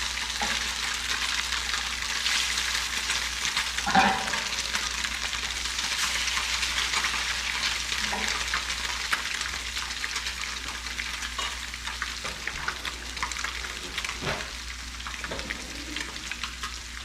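Porgy fillets frying in a hot pan: a steady sizzle with fine crackling, plus one short, louder sound about four seconds in.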